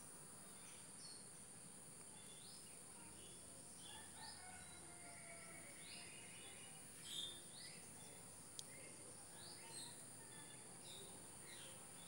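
Quiet background of birds chirping off and on, over a steady high insect hum. There is one sharp click about eight and a half seconds in.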